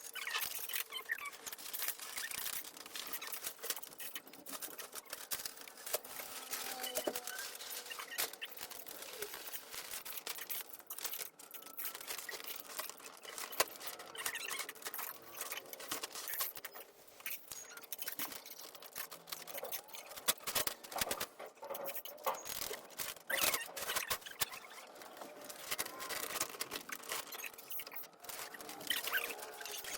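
Rapid, uneven crackling and rustling of something being handled, with many small clicks throughout.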